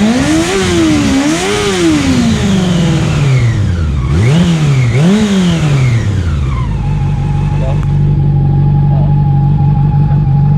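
Honda CB400 inline-four motorcycle engine being blipped: the revs rise and fall about four times in quick succession, then it settles into a steady idle about six and a half seconds in.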